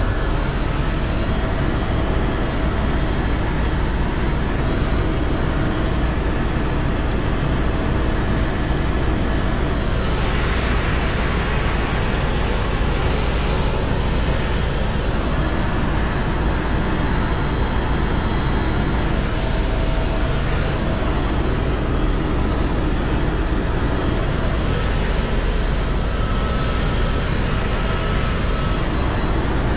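Helicopter engine and rotor noise, loud and steady, with a stretch of extra hiss from about ten to fifteen seconds in.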